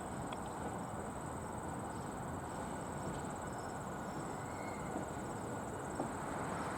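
Steady low rumble of a slow train, with a continuous high, rapidly pulsing insect trill, crickets, over it.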